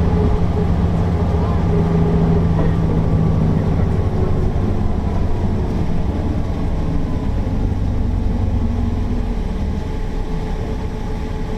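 Mercedes-Benz O408 city bus's diesel engine running while the bus is under way; its strong steady note drops away about three and a half seconds in, and the pitch then slowly falls as the sound eases off, as when the bus lifts off the throttle and slows.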